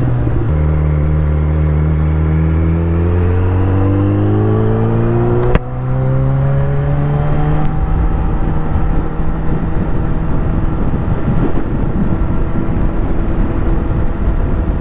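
Motorcycle engine accelerating, its pitch rising for about five seconds, then a click and brief dip in level as it shifts up, rising again and settling into a steady cruise. Wind rush on the helmet microphone.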